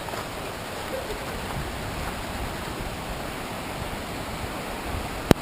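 Steady heavy rain, heard as an even hiss, with one sharp click near the end.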